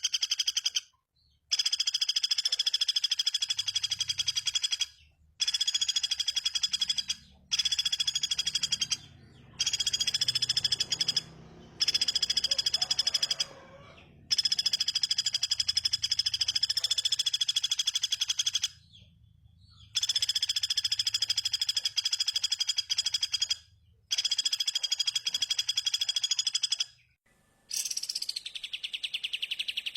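Bird song used for mastering: a fast, buzzy trill in repeated bouts of a few seconds each, broken by short pauses. Near the end a different call with falling whistles takes over.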